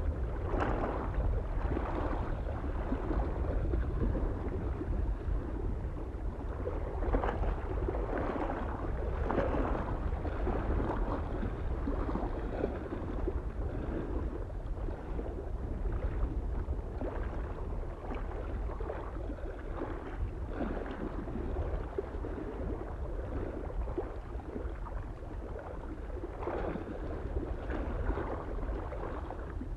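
Small waves lapping irregularly against a lake shore, in uneven splashes one after another, over a soft steady wind rumble.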